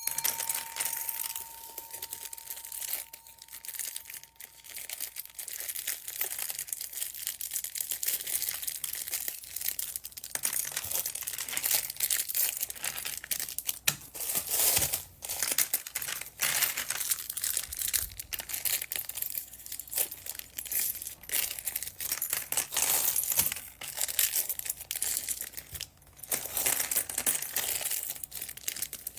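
Plastic packaging bags crinkling as they are handled and opened, with irregular crackles throughout.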